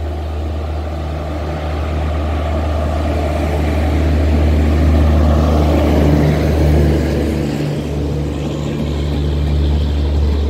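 Electric-hauled express train with LHB coaches passing close at speed: a continuous rumble of wheels on the rails over a steady low hum. It grows louder to a peak about halfway through, as the locomotive and the generator car go by.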